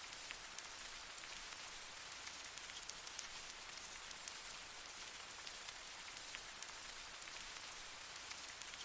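Steady light rain falling on leaves: an even patter with scattered individual drop ticks.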